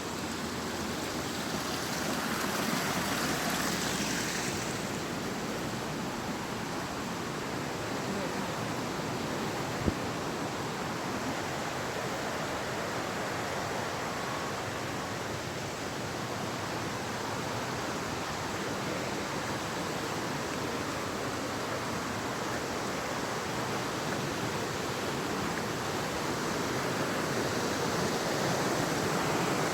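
River water rushing steadily, a little louder for a couple of seconds near the start, with a single sharp click about ten seconds in.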